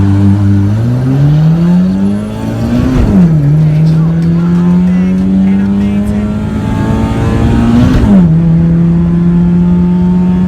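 Car engine accelerating hard through the gears. Its pitch climbs, drops at an upshift about three seconds in, climbs again and drops at a second upshift about eight seconds in, then holds almost steady.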